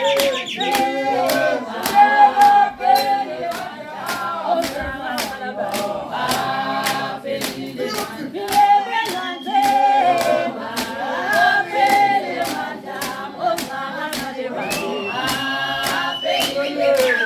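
A group of voices singing a Swazi traditional song together, over sharp claps or stamps in a steady beat of about two a second.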